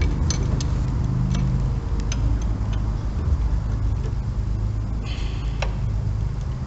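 Scattered light metallic clicks and clinks of socket extensions and tools being handled, over a steady low hum.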